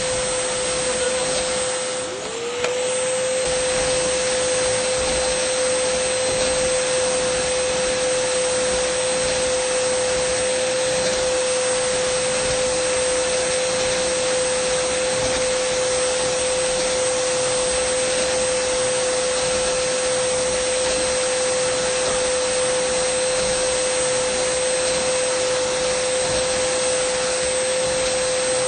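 Dyson vacuum cleaner running steadily: a rushing airflow with a steady motor hum and a high whine. About two seconds in, the sound dips briefly and the hum's pitch slides back up to where it was.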